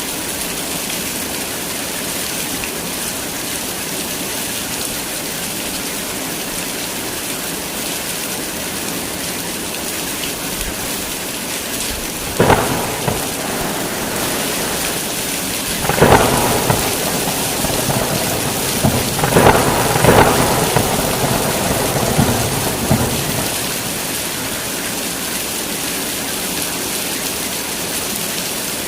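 Heavy, steady rain with thunder: a sharp crack about halfway through, then more thunderclaps and rumbling for several seconds.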